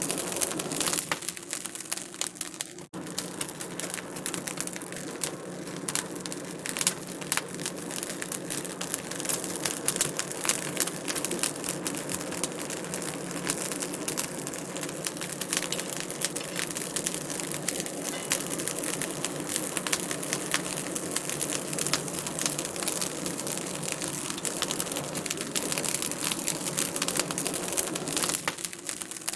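Wood fire crackling in a fireplace: a dense, irregular run of small pops and snaps over a steady hiss, dropping out for an instant about three seconds in.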